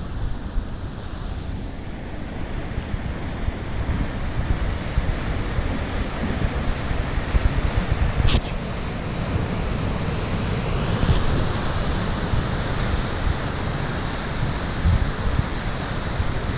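Wind gusting against the microphone over a steady rush of falling water and sea surf at the Gásadalur waterfall. There is a brief sharp click about halfway through.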